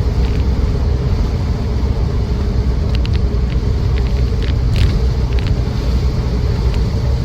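Cabin sound of a Land Rover Defender 90 with the 2.4 TDCi diesel on the move: steady low engine and road rumble, with a few light rattling clicks between about three and five and a half seconds in.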